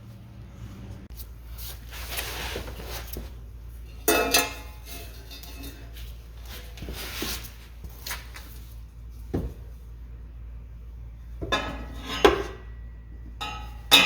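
Metal exhaust pipe of an axle-back muffler delete clanking and scraping as it is worked into place, in a handful of separate knocks with a longer scrape about two seconds in.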